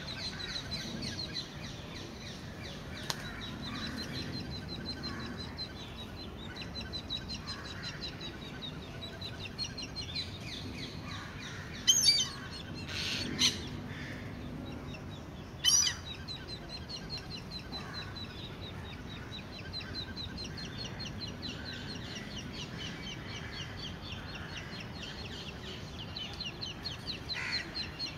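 Bird calls at an Indian grey hornbill nest hole while the male feeds the female and chicks inside: a fast series of high chirps runs throughout, with three loud, sharp calls between about 12 and 16 seconds in.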